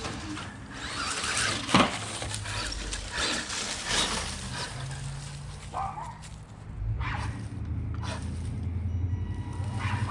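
A dog breathing hard and moving about in short, irregular noisy bursts over a low steady hum.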